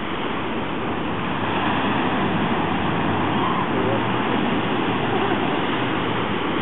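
Steady rushing noise of surf and wind on a beach, swelling slightly about two seconds in.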